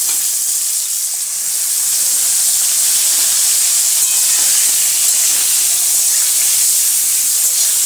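Parboiled pointed gourd (kakrol) pieces sizzling steadily in plenty of hot oil in a wok.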